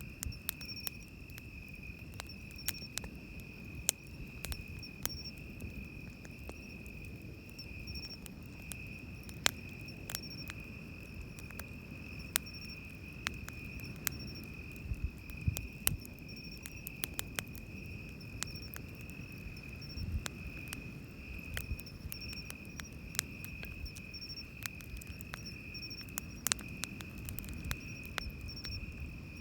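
Night insects trilling: one steady, unbroken high trill, with a second, higher insect chirping on and off over it. Campfire wood crackles with scattered sharp pops, over a low wash of waves.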